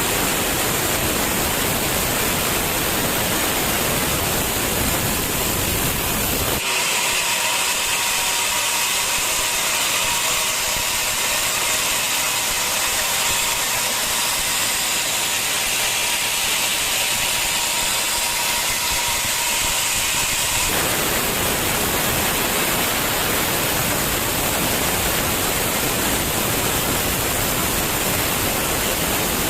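Sawmill machinery running with a loud, steady hiss. About seven seconds in, the sound turns abruptly thinner and higher, with a steady whining tone, and about twenty seconds in it switches back to the fuller hiss.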